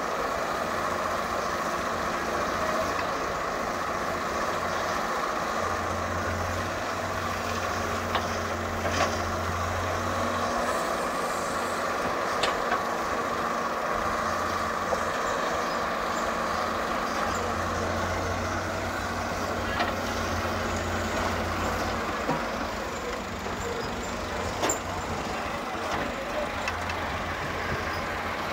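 EX100WD wheeled excavator's diesel engine and hydraulics running steadily, with a deeper low note coming in twice for a few seconds as the machine works under load. A few scattered sharp knocks.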